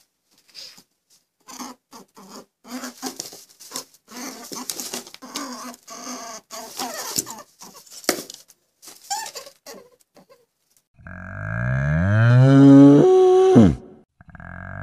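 Faint crackling and rustling for about ten seconds, then a cow mooing: one long, loud call that rises and then falls in pitch before cutting off, with the start of another moo at the very end.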